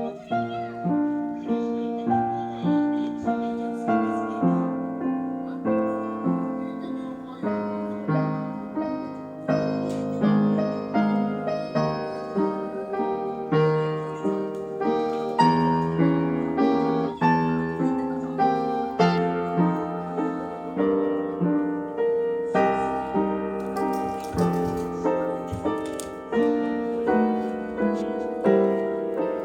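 Background piano music: a gentle melody in steady, evenly paced notes.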